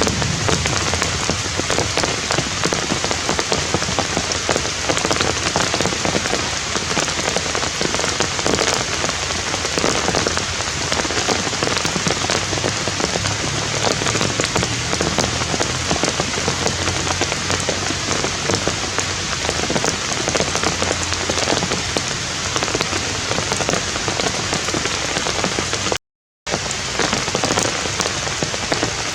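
Steady rain falling, an even dense hiss of drops, cut off briefly for about half a second near the end.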